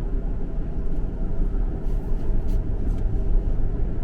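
Steady low rumble of a vehicle's engine and tyres heard from inside the cabin while driving slowly, with a few faint clicks about two seconds in.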